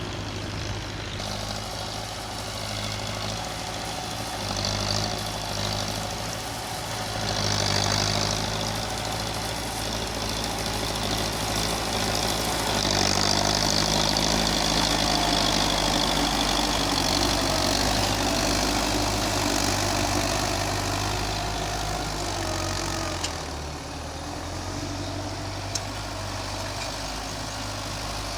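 Belarus tractor's diesel engine running steadily, growing louder with a hissing edge for several seconds in the middle, then easing back near the end.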